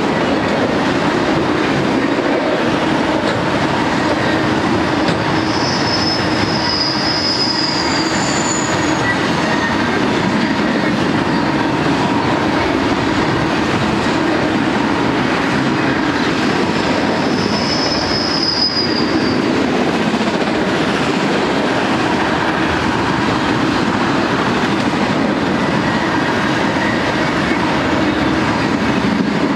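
Freight train of auto-rack cars rolling past at trackside: a steady rumble of steel wheels on rail. Two short, high wheel squeals rise above it, one about six seconds in and another around eighteen seconds in.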